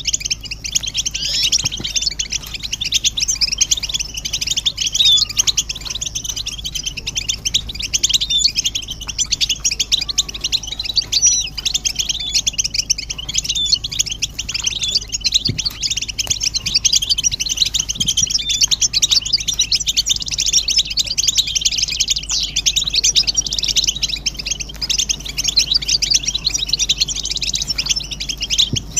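A group of European goldfinches twittering and singing together: a dense, unbroken chorus of fast, high chirps and trills.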